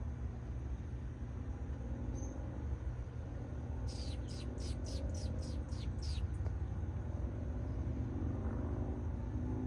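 A small songbird calling: a quick series of about eight high, sharply falling chirps, a little over two seconds long, starting about four seconds in, over a steady low rumble.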